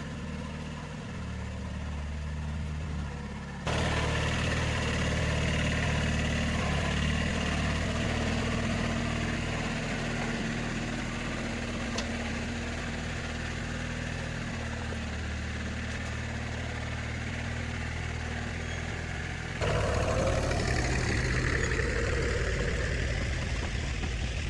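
A motor vehicle's engine running steadily, with abrupt changes in loudness and tone about four seconds in and again near the end.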